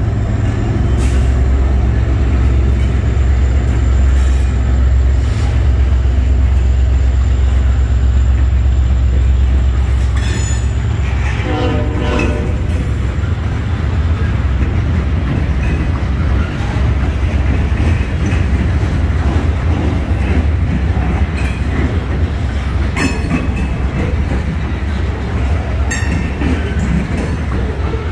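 A slow freight train passing close by: a diesel locomotive's low engine rumble for the first ten seconds or so, easing as the locomotive moves on, then a string of steel coal hoppers rolling past with clicking wheels, clanks and a brief squealing tone about twelve seconds in.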